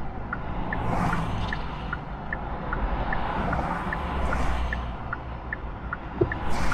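Hyundai Ioniq 6 turn-signal indicator ticking inside the cabin: short electronic tick-tock blips alternating between two pitches, about two to three a second, over steady tyre and road rumble on a wet road.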